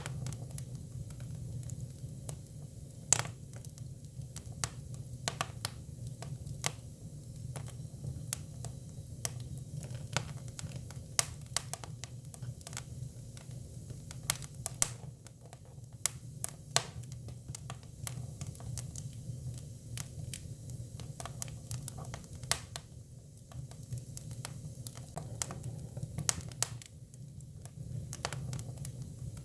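Hinoki cypress firewood burning: irregular sharp crackles and pops, a few louder snaps among them, over a steady low rumble of the flames.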